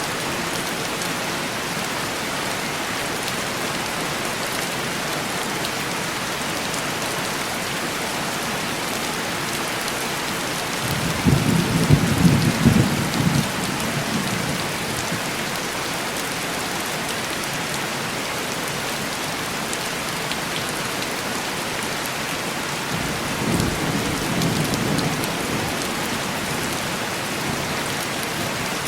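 Steady heavy rain pattering on window glass. About eleven seconds in, a low roll of thunder swells for about three seconds, and a second, fainter rumble follows later.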